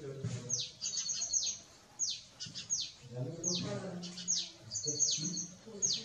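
Birds calling: a run of short, high, sharp notes that each drop steeply in pitch, about two a second, with a couple of quick stuttering trills mixed in.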